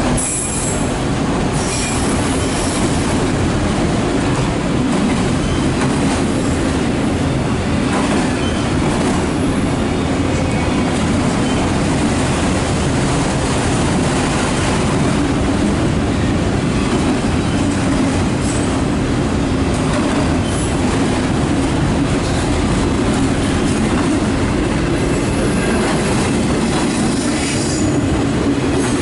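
Loaded autorack freight cars rolling past on steel wheels, a steady loud rumble of wheels on rail.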